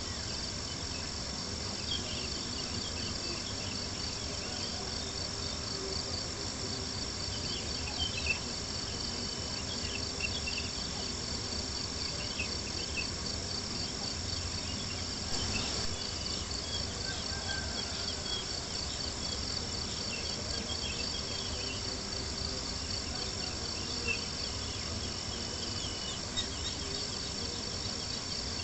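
Crickets chirping in a steady, high, pulsing trill, with campfire crackles and a few louder pops scattered through it.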